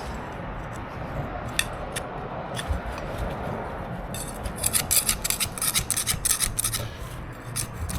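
A hand scraper scraping glued-down carpet underlay off a concrete floor. It starts as a steady scrape, then about four seconds in it becomes quick, repeated scraping strokes.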